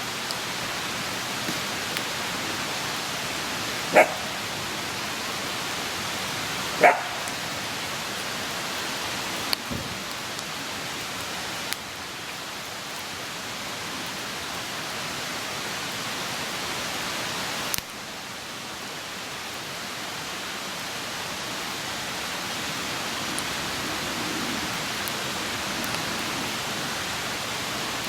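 Open wood campfire burning with a steady rushing hiss and a few sharp pops. A dog barks twice, about four and seven seconds in.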